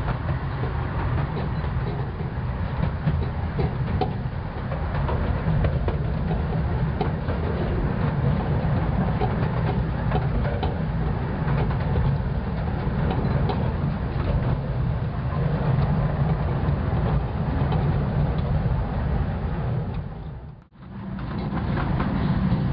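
Narrow-gauge light railway train running along the track: a steady low rumble with some wheel clatter. The sound briefly cuts out near the end, then returns.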